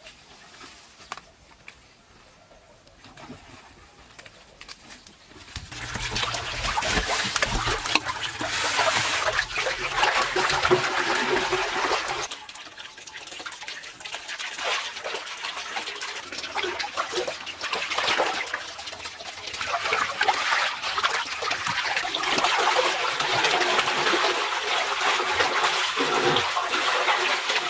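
Water rushing and splashing, starting about six seconds in after a quieter stretch and carrying on loudly.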